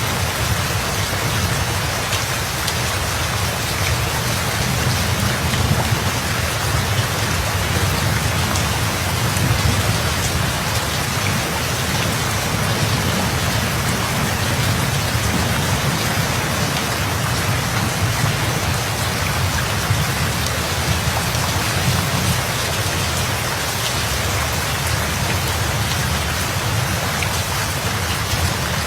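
Steady rain falling, a continuous even hiss with a low rumble underneath and slight swells in loudness.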